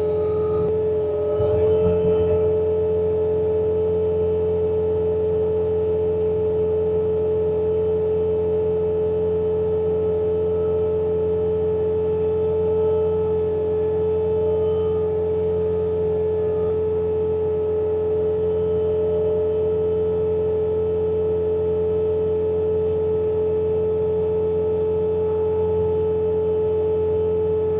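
Bobcat T66 track loader's diesel engine running steadily while it drives a snowblower attachment, with a strong steady high whine over a low drone. There is a brief clatter about two seconds in.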